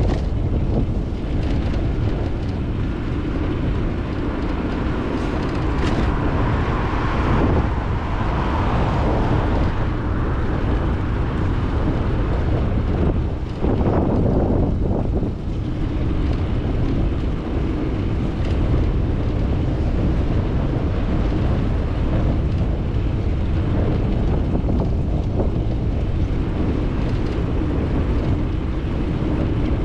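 Wind rushing over a GoPro 9's microphone on a moving bicycle, a steady low rumble, with traffic swelling past twice, about seven seconds in and again around fourteen seconds.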